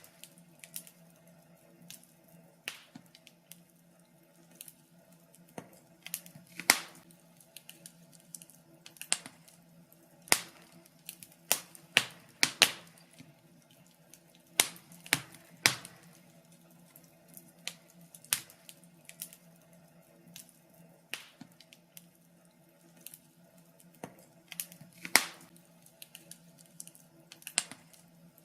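Wood fire crackling: irregular sharp pops and snaps at uneven intervals, a few much louder than the rest, over a faint steady low hum.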